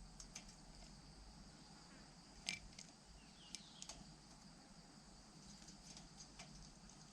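Faint steady insect chorus, with scattered sharp clicks; the loudest click comes about two and a half seconds in.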